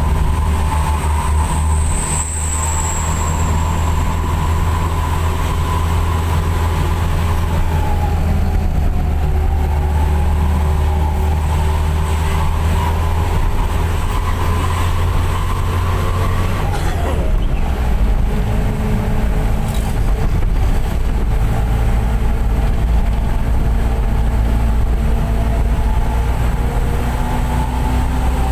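Minibus engine and aftermarket 'serigala' exhaust droning steadily under way, heard from inside the cabin, with higher tones that slowly rise and fall as engine speed changes.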